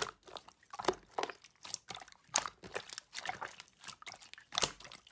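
Slime being squeezed and pressed by hand, giving irregular sticky crackles and squelches a few times a second.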